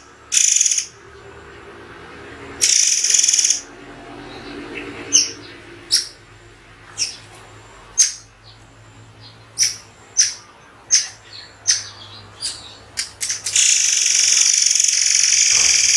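Songbird singing in sharp, separate notes spaced about a second apart, broken by harsh hissing rattles near the start and a long one near the end.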